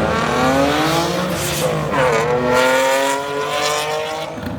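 A car engine accelerating hard, its pitch climbing through the revs, with an upshift about two seconds in and another near the end.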